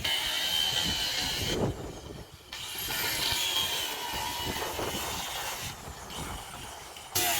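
Handheld electric saw cutting timber: a steady hissing whine that drops out twice briefly.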